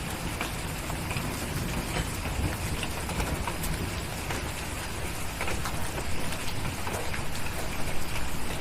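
Steady rain with scattered sharp crackles from a wood fire and a low rumble underneath, a little louder near the end.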